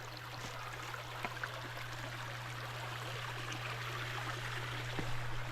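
A small creek running over rocks, a steady rushing of water, with a steady low hum underneath and a few faint knocks.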